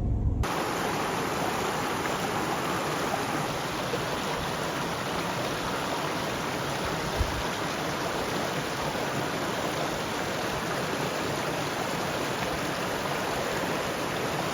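A mountain stream rushing steadily, starting abruptly about half a second in, with a brief low thump about seven seconds in.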